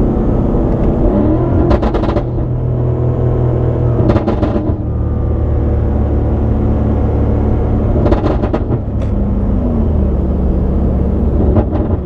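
BMW M5 Competition's twin-turbo V8 running at low speed in traffic, its note rising about a second in and easing down again near the end. Short crackly bursts come about four times over it.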